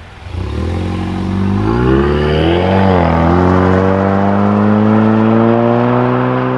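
Ford Mustang EcoBoost's turbocharged 2.3-litre four-cylinder engine through a Flowmaster Outlaw axle-back exhaust, accelerating away from a stop. The revs climb, dip briefly about three seconds in, then rise slowly and steadily.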